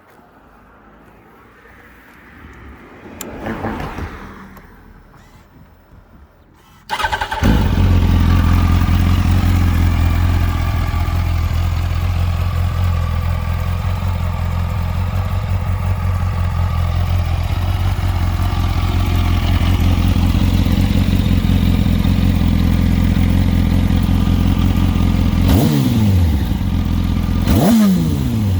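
Yamaha R1 sport motorcycle's inline-four engine starting about seven seconds in and then idling steadily. Near the end it takes two quick throttle blips, the revs falling back to idle after each. Before the start there is only a faint, brief swell of noise.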